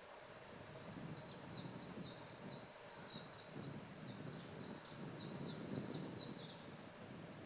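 A small bird calling: a rapid series of short, high, downward-sweeping notes, about four a second, for some five seconds, over a low rumble of wind.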